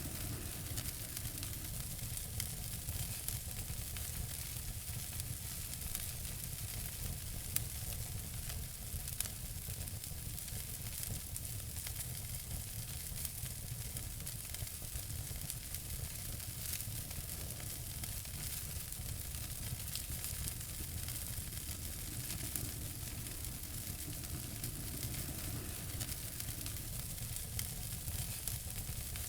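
Wood fire crackling in a fireplace: a steady hiss full of small snapping pops, with two louder pops about 7.5 and 9 seconds in.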